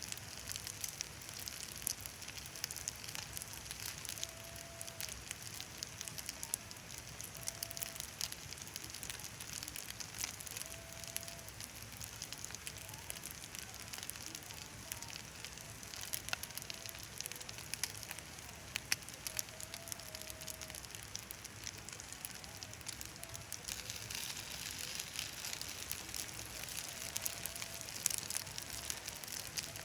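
Wood fire burning, with a steady hiss and many small sharp crackles and pops throughout.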